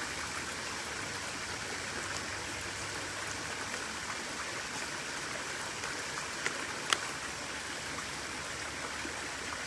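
A stream running steadily, an even rush of water, with two brief sharp clicks a little after halfway.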